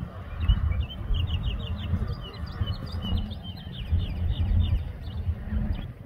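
Small birds chirping in quick runs of short, high notes, several a second, over a low rumble of wind on the microphone.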